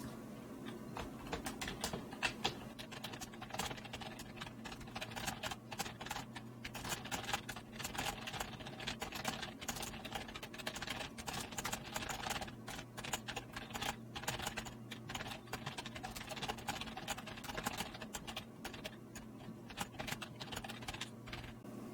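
Typing on a computer keyboard: a long, irregular run of key clicks, with a steady low hum underneath.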